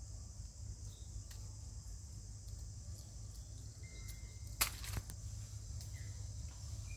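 Steady high-pitched drone of forest insects, with scattered small clicks and rustles and one sharp snap a little past halfway.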